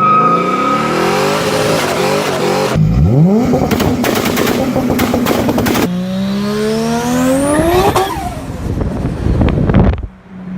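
Modified car engines revving hard in several quickly cut clips, their pitch climbing with each pull. The second clip has a run of sharp pops, and the third has a high rising whine over the engine.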